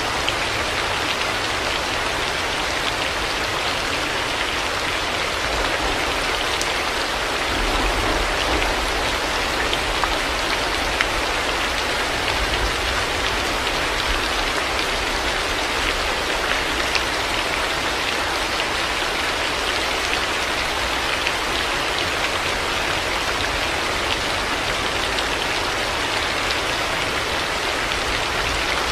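Steady heavy rain falling, with a few sharper drop hits standing out now and then.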